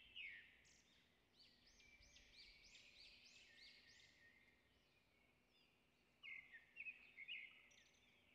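Faint bird chirping: a run of repeated rising-and-falling notes, about two or three a second, then a few more quick chirps near the end.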